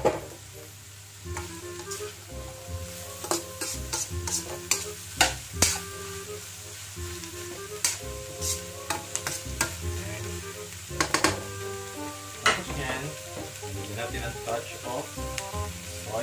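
Shredded cabbage, carrot and green pepper stir-frying in a wok: a steady sizzle broken by irregular scrapes and clinks of a metal spatula against the pan as the vegetables are tossed.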